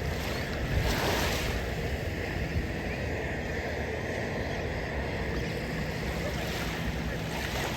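Small surf washing onto the beach, with wind rumbling on the microphone. The wash swells about a second in and again near the end.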